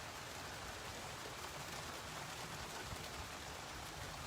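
Rain falling steadily in a thunderstorm: an even, unbroken hiss.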